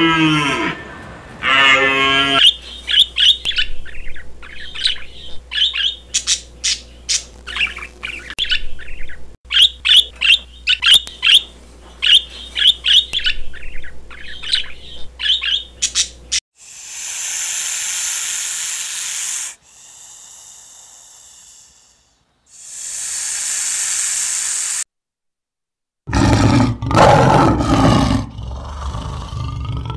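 A sequence of animal calls. A bull elk's deep call ends about two seconds in. Budgerigars then chirp and chatter rapidly for about fourteen seconds, followed by several seconds of hiss. A male lion roars in repeated heavy grunts over the last four seconds.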